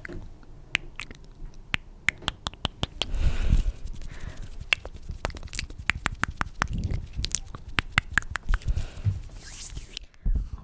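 Close-miked ASMR mouth and hand sounds: a fast, irregular run of sharp clicks and smacks with some soft rustling, stopping abruptly shortly before the end.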